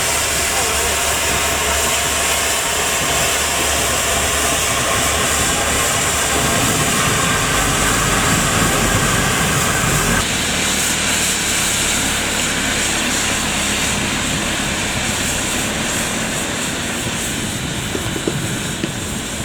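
Steam locomotive letting off steam: a loud, steady hiss that shifts in tone about ten seconds in.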